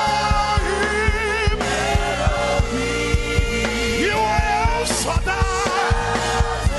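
Worship band music: a singing voice over sustained keys and a steady drum beat.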